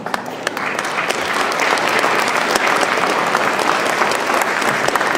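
Theatre audience applauding, building up over the first second and then holding steady.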